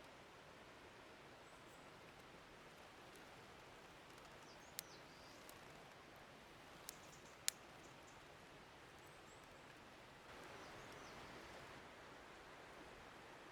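Near silence: faint steady outdoor hiss with a few faint high bird chirps and three sharp clicks about midway, the last one the loudest.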